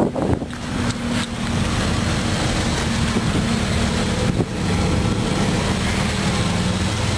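Wind rushing over the microphone, with a 2004 Jeep Grand Cherokee's 4.0-litre straight-six idling steadily underneath.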